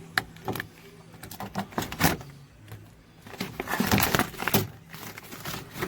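Irregular scraping and rubbing with a few sharp clicks, busiest near the middle and about two-thirds of the way in: hands and tools working on a stripped car door's inner panel.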